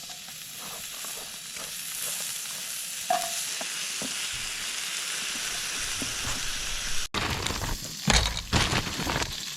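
Food frying on a griddle, with a steady sizzle and a few sharp knocks near the end.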